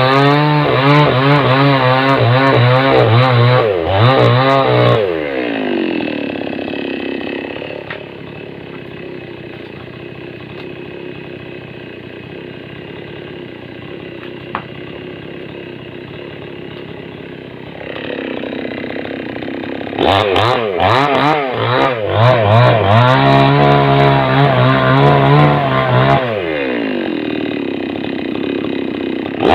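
Small chainsaw cutting into a flood-borne driftwood log: the engine runs at full throttle with its pitch wavering under load, drops to idle about five seconds in and idles for roughly twelve seconds, then revs back up and cuts again before easing off near the end.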